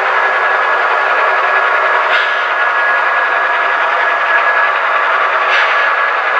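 Model train running on layout track: a steady whir of the small motor and wheels on the rails, with two brief clicks about two and five and a half seconds in.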